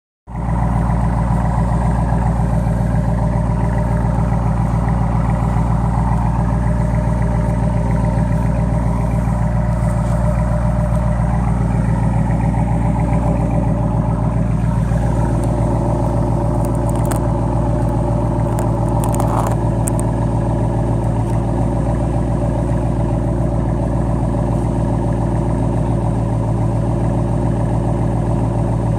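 Exhaust of a warmed-up 2015 Dodge Challenger with Flowmaster Outlaw mufflers and the mid-muffler deleted, running steadily at idle with a loud, even exhaust note.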